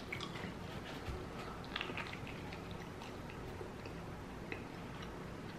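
A person chewing food close to the microphone, faint, with small soft mouth clicks now and then.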